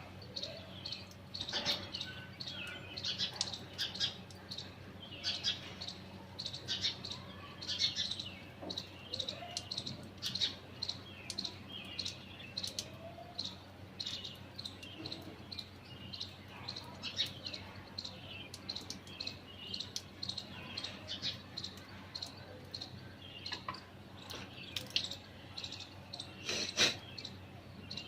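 Small birds chirping again and again, short high notes scattered throughout, over a steady low hum. A couple of sharp, louder clicks come near the end.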